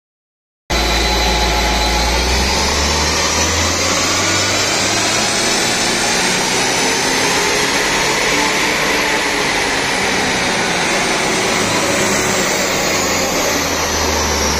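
Audi A4 2.0 TDI diesel engine and its front wheels driving the rollers of a chassis dyno during a power run. The sound cuts in abruptly just after the start, and a high whine climbs in pitch to a peak around the middle, then falls back toward the end.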